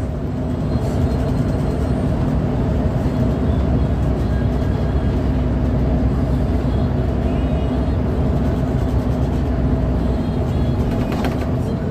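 Coach bus on the move: a steady engine drone with road noise.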